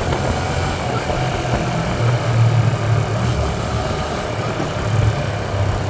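Hyosung Aquila 125's small V-twin engine running steadily at low revs over a constant hiss.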